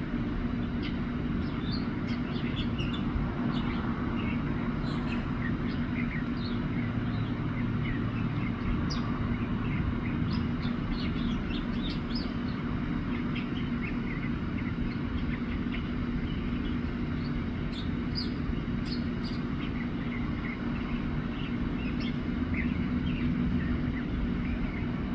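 Mockingbird singing a long run of short, varied chirps and trills, phrase after phrase. A steady low hum, like traffic or a machine, runs underneath and is louder than the song.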